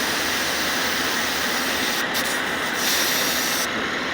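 Refrigerant hissing out of a Schrader valve on the AC charging hose as it is held open with a screwdriver, purging air from the line before the low side is opened. The hiss is steady, with a brief break about two seconds in, and its sharpest part cuts off near the end.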